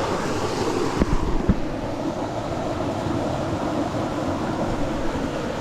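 Steady rush of creek water, with wind buffeting the microphone and two low thumps about a second in.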